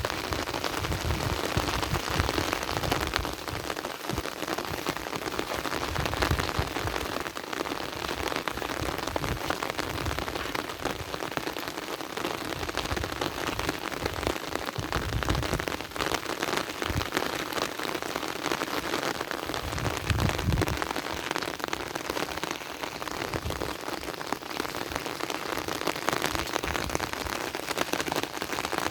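Heavy rain falling steadily, a dense even hiss of drops, with irregular low rumbles underneath.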